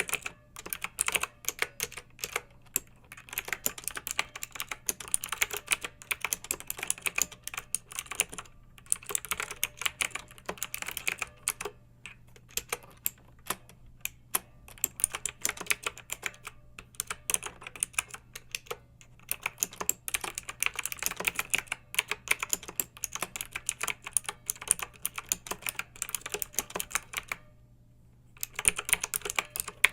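Clicky mechanical keyboard being typed on in fast, dense runs of keystrokes, broken by short pauses, the longest about a second near the end.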